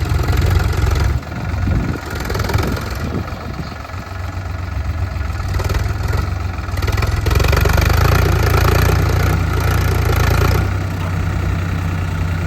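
Tractor engine running steadily, growing louder for a few seconds in the second half before easing back.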